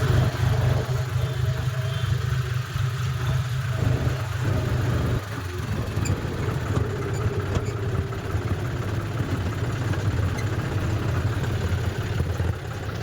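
John Deere tractor's diesel engine running steadily, a low, even engine note.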